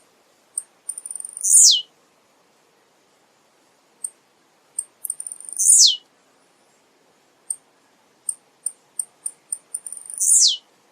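Male blue-black grassquit (tiziu) singing: three songs about four seconds apart. Each is a quick run of short, high ticks ending in a loud note that slides sharply down in pitch.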